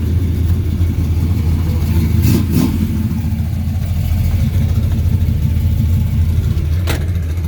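A car engine running nearby as a steady low rumble. There is a brief scuff about two and a half seconds in and a sharp click near the end.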